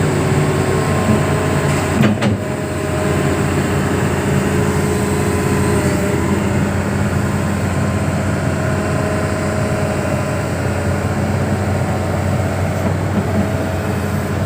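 Hitachi 210 excavator's diesel engine running steadily, with a single knock about two seconds in.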